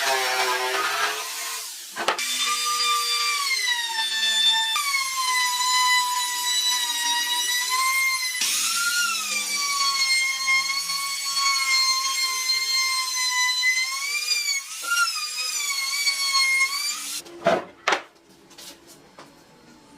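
High-speed power tool whining as it cuts or shapes wood, its pitch wavering and dipping slightly under load, with short breaks. It stops near the end, followed by a couple of sharp knocks.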